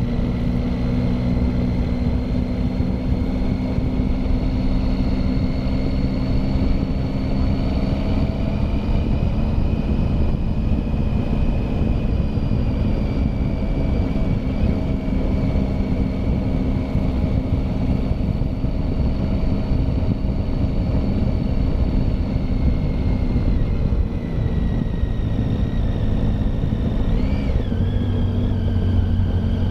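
Motorcycle engine running steadily under way, with a heavy low rumble of wind and road noise. The engine note drops about two-thirds of the way through.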